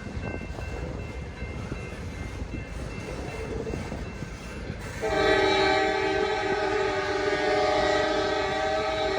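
A freight train rumbling past, and about halfway through a locomotive air horn sounds one long, steady chord that holds to the end.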